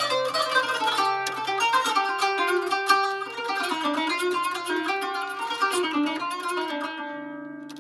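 Kanun (Turkish plucked zither) playing a solo taksim in makam Uşşak: quick runs of plucked notes that slow and ring away near the end.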